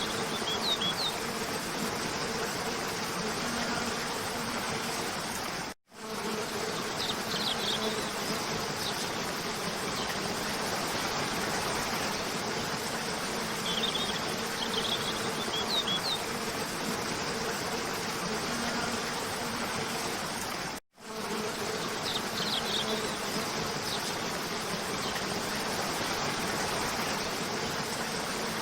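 Steady rush of a cascading waterfall, with short clusters of bird chirps every few seconds and a steady low buzz underneath. The whole sound cuts out for a split second twice, about fifteen seconds apart.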